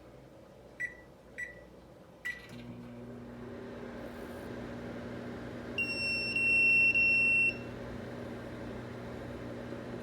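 Microwave oven keypad beeping twice, a relay click, and the oven starting up with a steady low hum from its transformer and magnetron. About six seconds in, a microwave leakage detector sounds a loud, high, rapid beeping alarm for over a second, a sign of microwave leakage from the oven.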